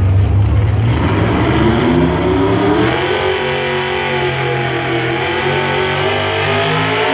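1954 Ford F100 pulling truck's engine running at full throttle; about a second in its revs climb for two seconds and then hold high. The announcer takes this for something letting go in the drive line or the truck slipping out of gear.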